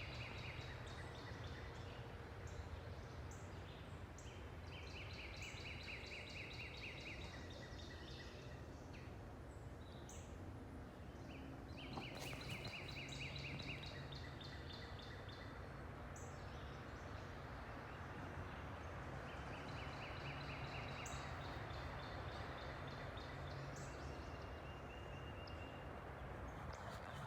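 Wild birds calling, short rapid trills repeated every few seconds, over a steady low rumble.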